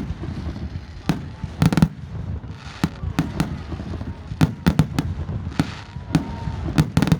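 Fireworks display: aerial shells bursting one after another at irregular intervals, several going off in quick clusters of two or three bangs.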